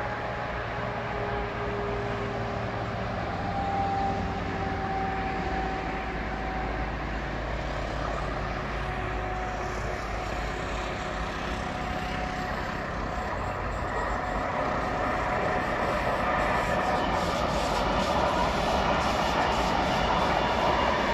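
A train approaching on the line, steadily growing louder: a hum with two faint tones slowly dropping in pitch, then the clatter of wheels building up in the second half.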